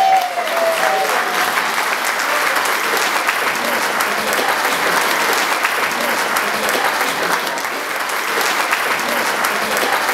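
Audience applauding steadily after a live band finishes a song, with the last note of the song dying away in the first second.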